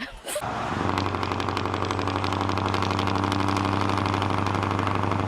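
A vehicle engine running steadily at idle, with a low, even hum and a fast regular pulse, starting about a second in after a short break in the sound.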